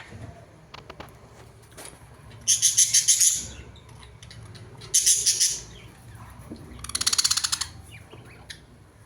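A bird calling in three loud bursts of rapid, repeated high chattering notes, a couple of seconds apart, with faint chirps in between.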